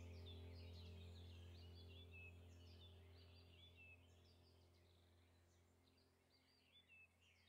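Faint chatter of many small birds chirping, over a low steady tone that fades away gradually.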